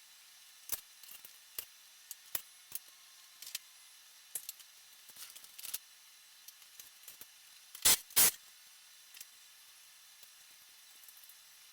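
Scattered light clicks and knocks of tools and parts being handled in a workshop, with two louder clacks close together about eight seconds in, over a faint hiss.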